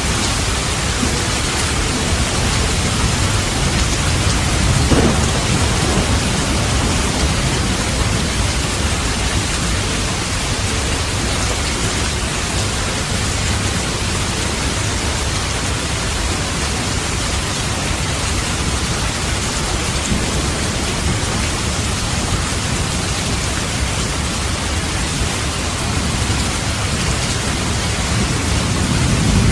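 Steady heavy rain with rolling thunder, low rumbles swelling about five seconds in and again near the end.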